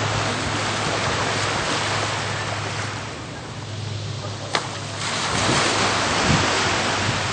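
Jet ski running on the water: a steady low engine hum under heavy water and wind noise, easing off briefly around the middle, with a single sharp click about halfway through.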